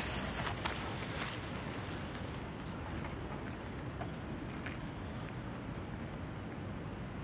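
Steady outdoor noise of light rain, with scattered faint ticks of drops and a low rumble underneath.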